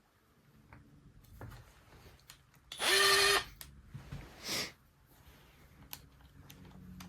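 Cordless drill/driver spinning briefly about three seconds in, a short high whir, with a shorter noisy burst a second later and small clicks of parts being handled around it.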